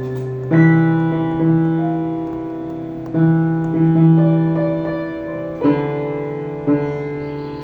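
Slow, calm piano music: chords struck a few seconds apart, each ringing on and fading before the next.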